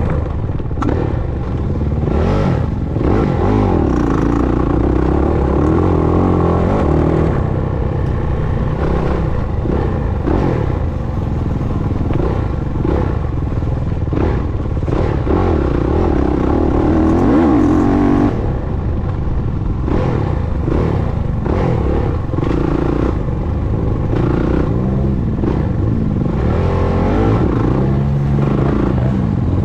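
Motocross dirt bike engine being ridden hard, revving up and easing off over and over as the rider works the throttle, with scattered knocks through it.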